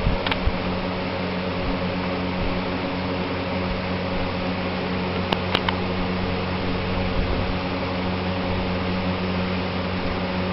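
A steady mechanical hum, like a fan running, with a few sharp clicks: one right at the start and two close together about five and a half seconds in.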